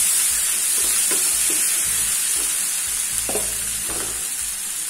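Thick onion-tomato masala frying in oil in a non-stick pan, sizzling steadily while a wooden spatula stirs and scrapes it with repeated short strokes. The masala is well sautéed, at the stage where the oil has separated.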